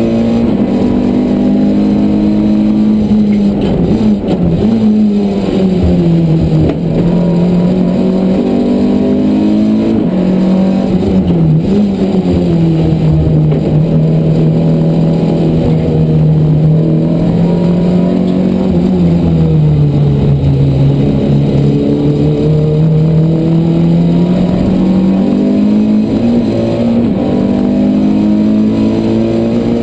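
Renault Clio race car's engine heard from inside the cabin at racing speed. The revs drop sharply about four seconds in, hold fairly steady through a long middle stretch, dip again around twenty seconds and climb back near the end, over road and wind noise.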